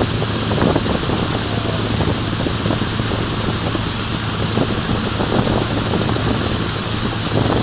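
Steady wind buffeting the microphone, with a constant low hum underneath.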